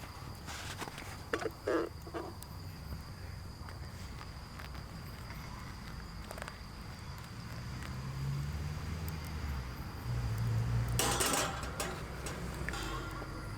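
Outdoor ambience with a steady high-pitched insect trill, broken by scattered small clicks and knocks and a short loud rustle about eleven seconds in.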